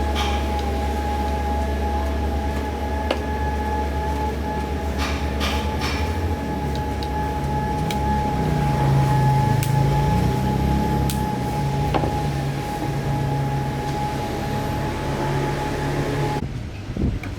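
A small electric motor running steadily with a constant whine and a low hum. It cuts off suddenly near the end.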